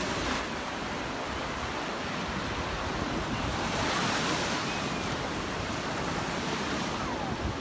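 Surf breaking on a Gulf beach: a steady wash of waves that swells briefly about four seconds in.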